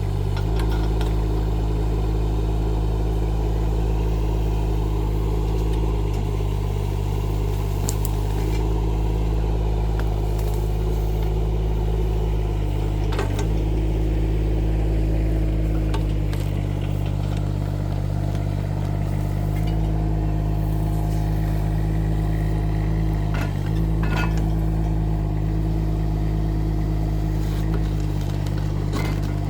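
Rippa R15 mini excavator's engine running steadily under working load, with a few sharp clanks from the machine as it digs.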